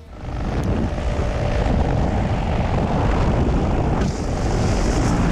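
Loud rushing noise of a paramotor's engine and propeller close to the microphone, with wind over it; it starts abruptly and holds steady.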